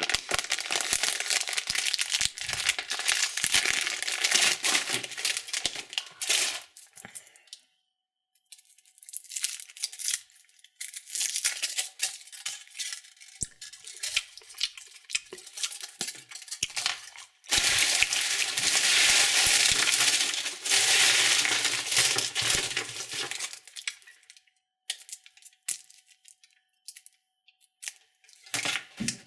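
Foil wrapper of a Kinder chocolate Santa Claus crinkling and tearing as it is unwrapped by hand, in long loud spells with quieter pauses between.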